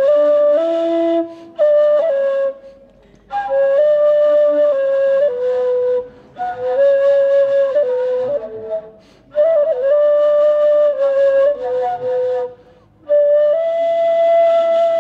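Ney, the Turkish end-blown reed flute, playing a slow solo melody in phrases of a few seconds, with brief breaks for breath about every three seconds.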